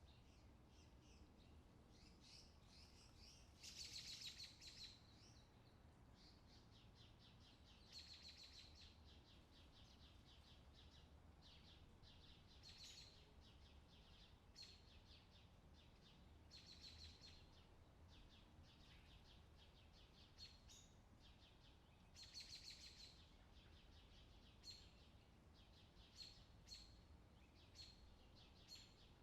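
Faint songbird song: rapid trilled phrases every four to five seconds, with short high chirps between them, over a faint low hum.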